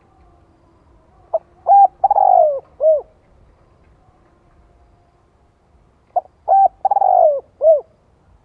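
Spotted dove cooing its territorial call twice, about five seconds apart. Each phrase has a couple of short notes, a longer falling coo and a short closing note. It is a decoy bird's call used to provoke wild males.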